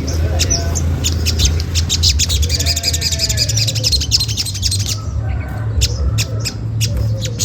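Olive-backed sunbirds giving rapid, high-pitched chattering 'cret cret' calls, many notes a second, with a brief lull just past the middle, over a steady low hum.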